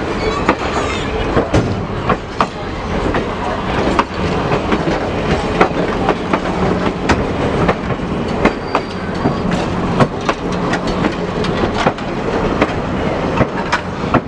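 Railroad cars rolling past, their wheels clicking irregularly over the rail joints above a steady rumble.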